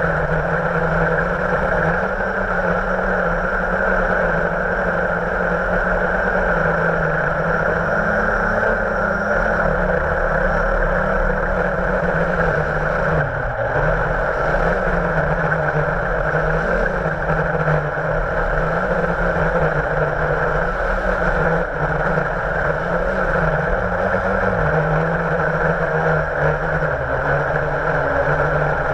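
Blade 350 QX quadcopter's brushless motors and propellers buzzing steadily, the pitch wavering slightly as the motor speeds shift.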